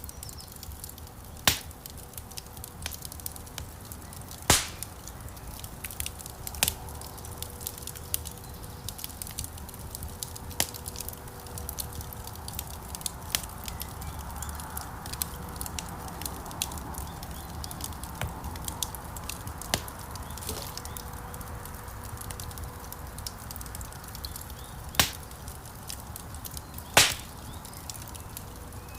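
Wood fire crackling in a fireplace: a dense run of small crackles and snaps over a low, steady rumble of flame, with a few sharp, louder pops, one about a second and a half in, one about four seconds in and two near the end.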